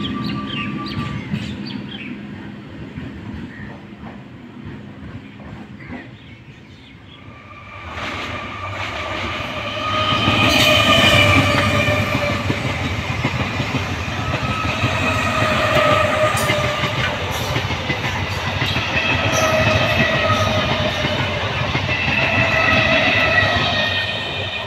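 Electric multiple-unit local train passing close by. The rumble and clatter of its wheels on the rails swell from about eight seconds in, are loudest a couple of seconds later and stay strong. A short ringing tone comes back every few seconds as the coaches go by. Before that, the sound of a receding train fades away.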